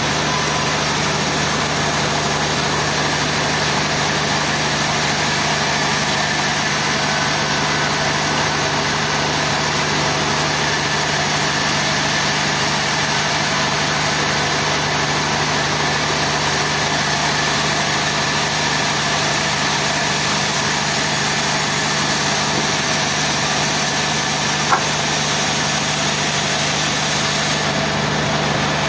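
Sawmill machinery running steadily: an engine or motor held at a constant speed, with a steady low hum and no cut being made. A single sharp click about 25 seconds in.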